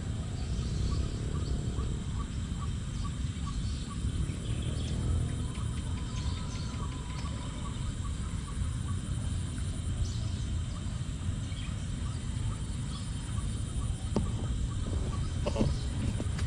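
Rural pond-side ambience: faint, repeated bird chirps over a steady low background noise.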